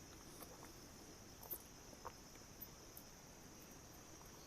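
Faint night-forest ambience: a steady high insect drone with a few faint, scattered clicks or rustles.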